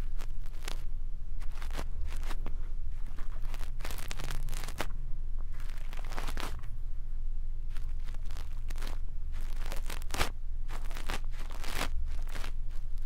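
Brush bristles scratching and rustling against an ear microphone in irregular strokes, some louder and longer, over a steady low hum.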